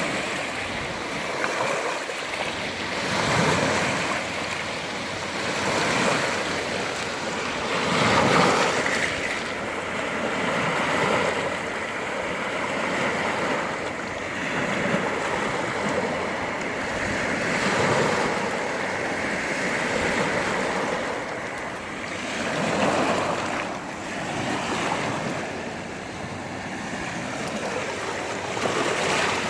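Sea waves breaking and washing on the shore, the surf swelling and easing every few seconds, with wind blowing.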